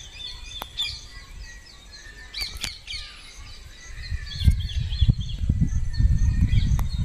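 Birds chirping and twittering in quick, high calls. About halfway through, a low rumbling noise joins in and grows louder.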